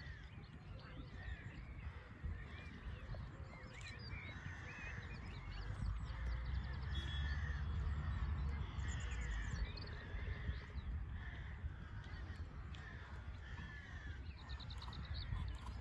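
Wild birds chirping and singing continuously, with a couple of fast trills. A low rumble swells for a few seconds in the middle.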